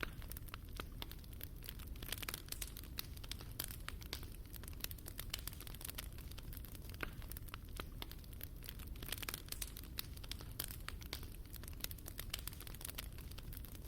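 Fire burning in a fireplace: dense, irregular crackles and snaps over a low, steady rumble of the flames.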